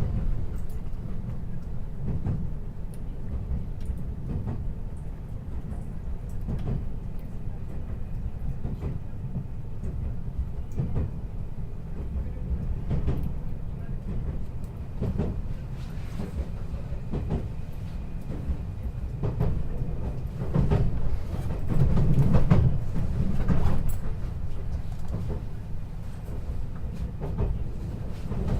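Running noise inside a 521 series electric train car: a steady low rumble of wheels on rail, with irregular knocks as the wheels cross rail joints and points while the train nears a station. The rumble swells briefly about three quarters of the way through.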